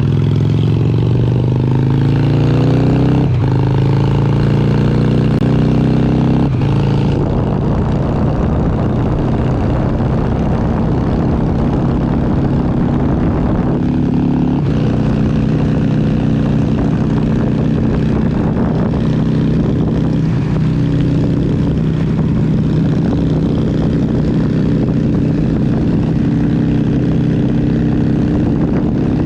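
Honda XR650L's air-cooled single-cylinder four-stroke engine pulling hard under acceleration, its pitch rising through two gear shifts about three and six seconds in. It then holds a steady cruise, with a brief drop off the throttle about halfway.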